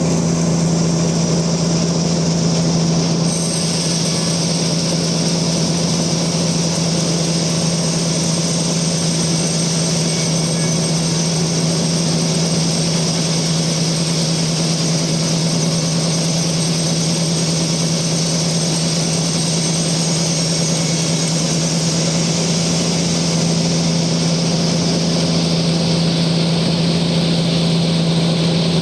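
Band sawmill running steadily, its motor giving a constant low hum; about three seconds in a higher hiss joins, the blade working through the trembesi log, and it eases off near the end.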